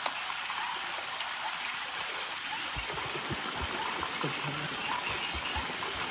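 Steady rushing water, a dense even hiss of heavy rain or a stream, with a few soft low thumps in the middle.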